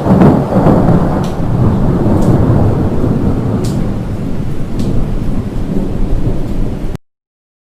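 A loud, low rumble of thunder with a rain-like hiss, cutting off suddenly about seven seconds in.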